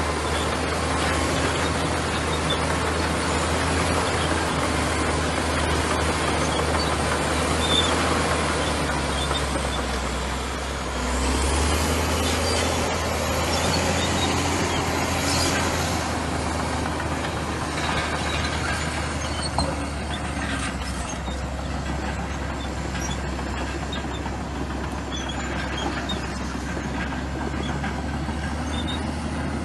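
Komatsu bulldozer's diesel engine running steadily with a deep hum, dipping briefly about ten seconds in and then picking up again.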